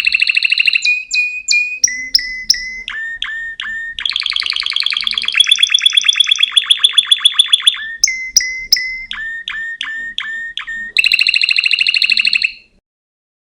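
A songbird singing a loud, varied song: fast rattling trills alternating with short runs of sharp, down-slurred whistled notes. The song stops shortly before the end.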